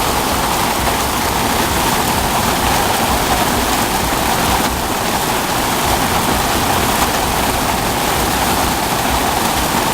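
Heavy tropical rain pouring down steadily onto a flooded street, a dense, even hiss with no letup.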